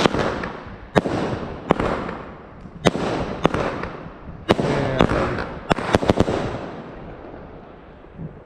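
New Year's Eve fireworks going off: about ten sharp bangs, spaced a half second to a second apart, with crackling between them, dying away after about six and a half seconds.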